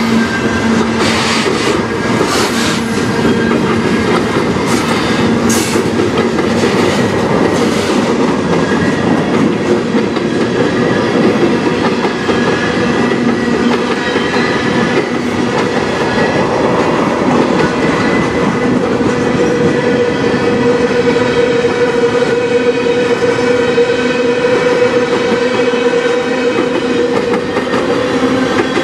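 Freight cars of a passing manifest train, autoracks and then tank cars, rolling by at close range. The wheels make a steady rumble on the rails, with sharp clacks over the rail joints, most of them in the first several seconds, and steady ringing tones running underneath.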